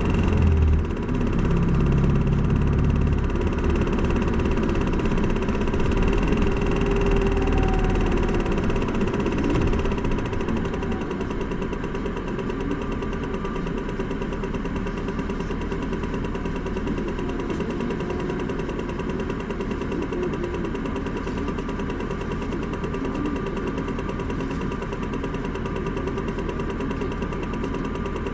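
Isuzu Erga city bus diesel engine running under way for about the first ten seconds, then settling to a steady, quieter idle.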